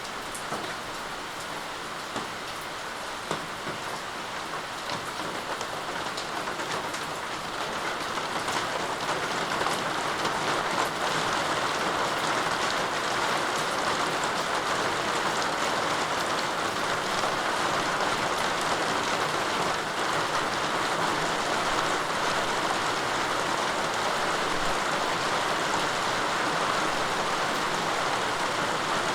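Steady rain falling on hard surfaces, with a hiss of many drops and fine individual drop ticks; it grows heavier about a third of the way in.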